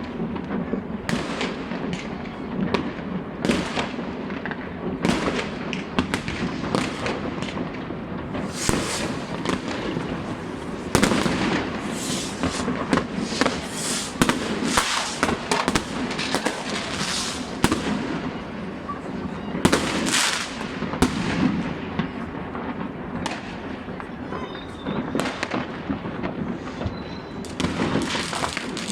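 New Year's fireworks and firecrackers going off without a break: a dense mix of bangs, pops and crackling, busiest through the middle.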